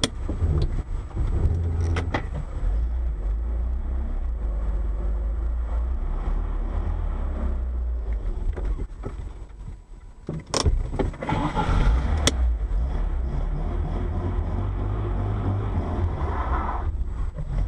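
Steady low road and engine rumble of a moving car as heard inside the cabin. About ten and a half seconds in comes a sharp bang followed by a second or so of clatter, and another sharp click just after.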